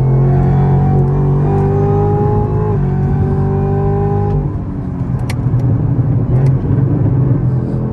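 Camaro ZL1's supercharged V8 running under load at highway speed: a steady engine drone with a high supercharger whine over it. About four and a half seconds in the whine stops and the engine goes on as a rougher rumble.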